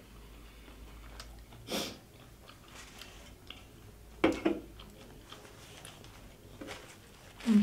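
Close-miked chewing of a toasted sub sandwich. There are a few louder sharp noises: one about two seconds in, a quick double one about four seconds in as a paper towel is grabbed, and another at the end.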